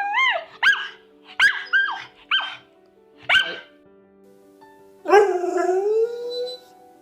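A dog gives a run of about six short, high-pitched yelping barks, then one longer drawn-out howl rising in pitch about five seconds in, over faint background music.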